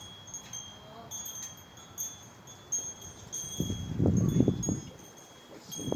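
Wind chimes ringing with thin, high tones that come and go, and a louder low rumble for about a second midway.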